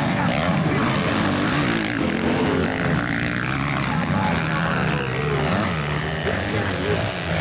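Several motocross bikes' engines revving, their pitch rising and falling over one another as the riders open and close the throttle.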